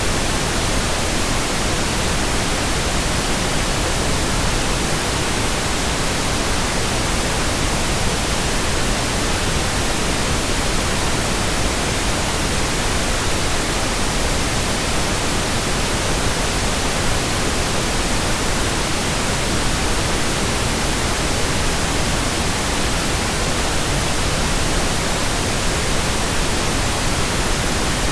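Continuous electronic white noise: a steady, even hiss across the whole range from low to very high, with no changes or breaks.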